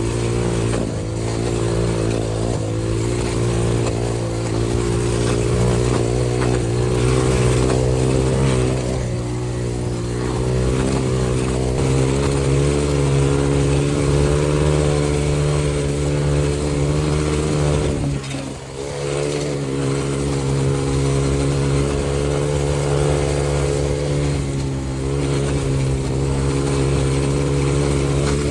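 X-Pro 125cc dirt bike's single-cylinder four-stroke engine running under throttle as the bike is ridden, its pitch shifting a little with the throttle. The engine note drops briefly about two-thirds of the way through, then picks up again.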